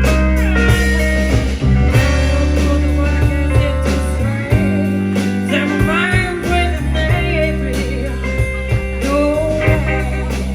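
A live band playing a song: guitar over a steady bass line, the bass dropping out for a moment about halfway through.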